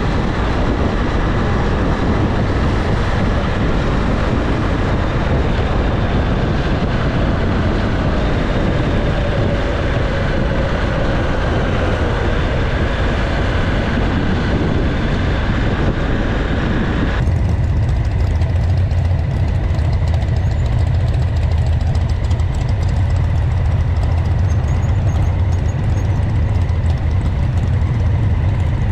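Motorcycle engine running on the move with rushing wind and road noise, its pitch slowly rising and falling. A little over halfway through, the rushing cuts off abruptly and a steady low engine note, like idling, is left.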